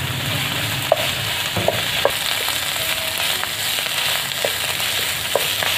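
Boiled, squeezed radish frying in oil in a pan, sizzling steadily as a wooden spatula stirs and scrapes it, with a few light taps of the spatula on the pan. This is the bhunai stage, roasting the radish well to drive off its smell.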